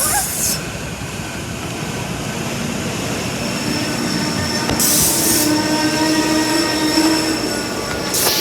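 SEPTA Silverliner V electric multiple-unit train running through the station, with thin steady squealing tones from the wheels. Three short bursts of hiss come at the start, about five seconds in, and at the end.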